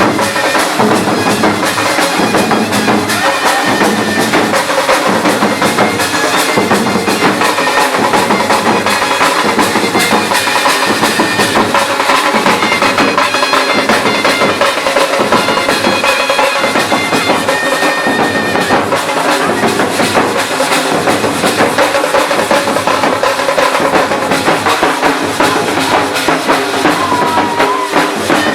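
Traditional Jharkhandi band music: a shehnai carrying a melody over loud, fast, continuous drumming from nagada, dhank and tasa drums with jhanjh cymbals.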